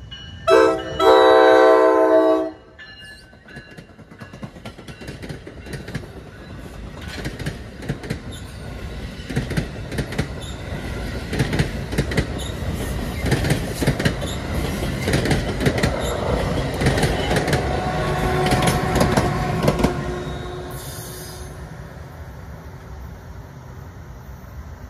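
Horn of an NJ Transit Multi-Level cab car sounding a short blast and then a longer one as it nears the grade crossing, the loudest sound here. Then the electric commuter train passes close by with wheels clicking over rail joints, growing louder until the ALP-46 electric locomotive pushing at the rear goes by near the end, then fading away.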